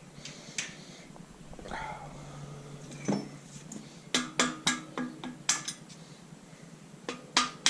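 Engine main bearing shells clinking metal on metal as they are handled and set down, with a quick run of sharp, briefly ringing clinks about four seconds in and a few more near the end, over a low steady hum.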